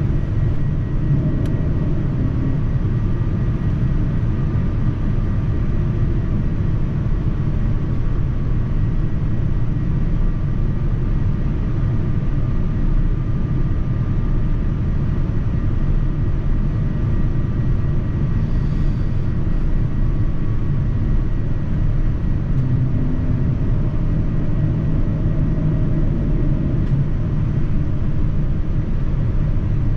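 Steady cabin noise inside a Boeing 787-9 airliner: an even low rumble of the jet engines and air rushing past the fuselage, with faint steady whines above it.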